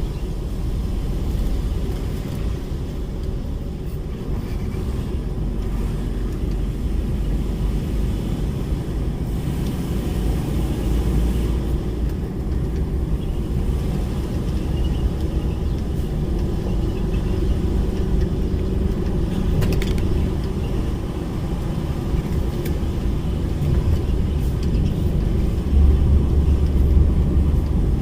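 DAF lorry's diesel engine running under way with tyre and road noise, a steady low rumble heard from inside the cab. The rumble grows heavier for a moment near the end.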